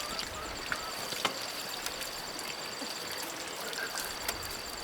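Steady trickle of running water, with a steady high-pitched whine over it and a few light knocks.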